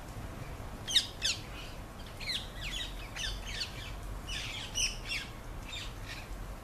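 Small birds calling: short, high chirps that sweep quickly downward, in scattered groups, over a steady low rumble.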